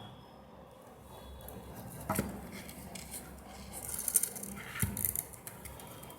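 Small clicks, taps and rustles of craft materials being handled, with a sharper knock about two seconds in and a quick run of light clicks around four to five seconds in.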